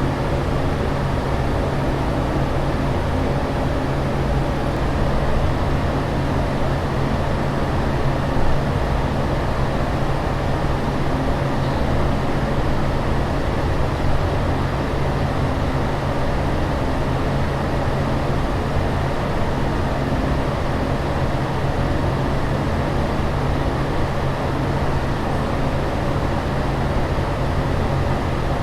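Steady airliner cabin drone in flight: an even rush of air and engine noise, heaviest in the low end, with a low steady hum under it and no breaks or changes.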